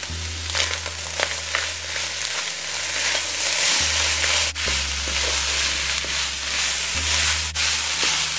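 Flaked saltfish with chopped tomato and spices sizzling in oil in a nonstick wok, stirred with a wooden spatula that scrapes and taps against the pan now and then. A steady low hum runs underneath.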